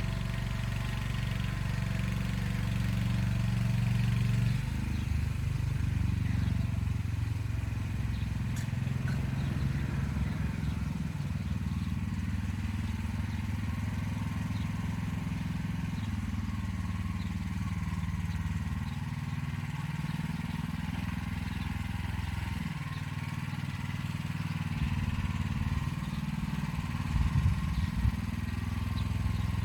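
Motor Sich walk-behind tractor engine running steadily while pulling an arrow-type hiller through the soil. Its note shifts about four seconds in and then wavers unevenly under the load.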